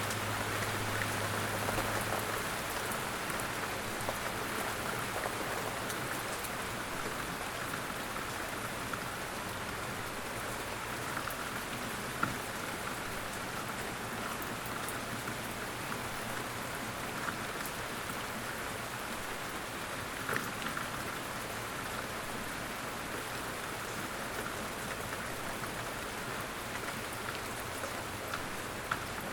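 Light rain falling steadily in woodland, an even patter with scattered louder drops. A low steady hum fades out about two seconds in.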